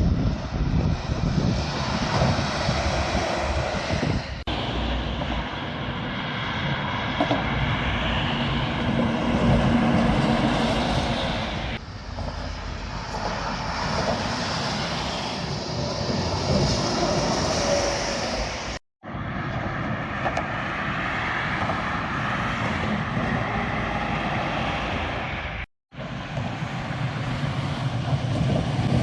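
Heavy trucks going past on a highway: a loud, steady rush of engine and tyre noise that swells and fades as each one passes. The sound drops out briefly twice, about two-thirds of the way in and again near the end.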